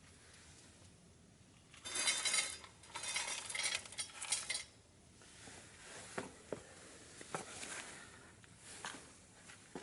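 Metal camp gear clattering and rattling for a couple of seconds, like pots and pans, followed by scattered small clicks and crackles.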